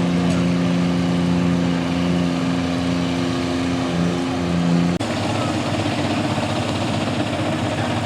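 Engine running steadily at a constant pitch. About five seconds in it cuts off abruptly, and a rougher, noisier engine sound follows.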